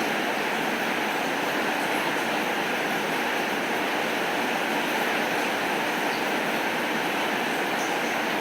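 Steady rain, an even unbroken hiss with a few faint ticks of single drops.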